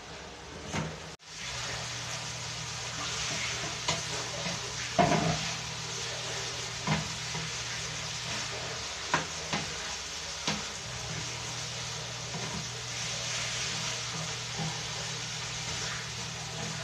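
Ground meat, hot dog, carrots and peas sizzling in a frying pan while a wooden spatula stirs them, with several short knocks of the spatula against the pan.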